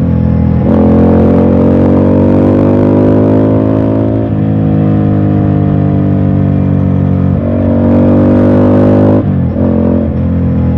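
Ducati Scrambler's air-cooled L-twin engine running under way, heard from the rider's position. Its pitch climbs and falls with the throttle and steps at gear changes: about a second in, near the middle, and twice toward the end.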